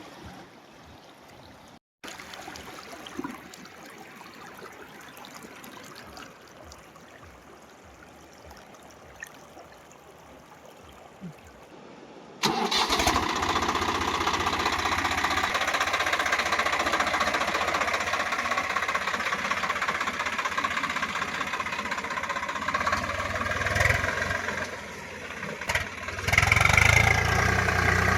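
Diesel tractor engine, coming in suddenly about halfway and then running steadily. Its level dips briefly near the end and then comes back up. Before it there is only a much quieter background.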